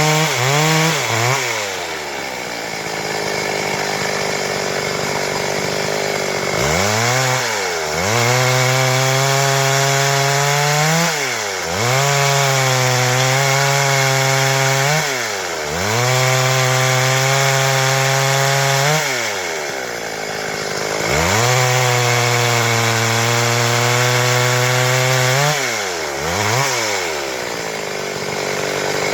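Stihl MS 382 two-stroke chainsaw sawing wood. It gives a few quick throttle blips, runs lower for a few seconds, then holds high revs in the cut, the pitch sagging and picking back up about four times.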